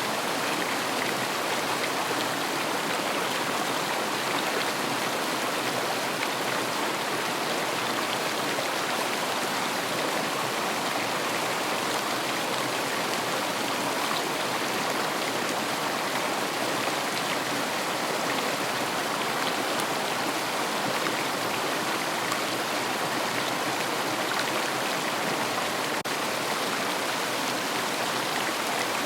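River water flowing, a steady, even rush of water with no breaks or changes.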